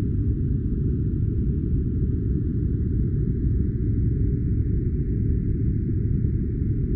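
Steady, deep, muffled noise that does not change: a white-noise sleep track.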